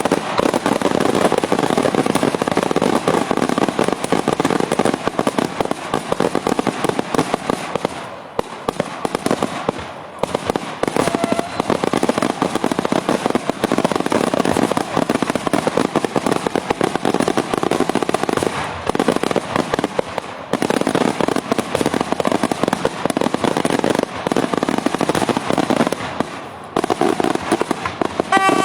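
Daytime fireworks: a dense, unbroken barrage of rapid bangs and crackling, with short lulls about 8, 10, 20 and 26 seconds in.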